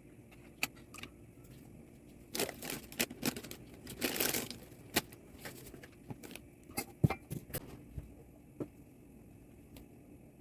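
Kitchen handling sounds: irregular clicks and knocks, with a stretch of rustling from about two to four and a half seconds in.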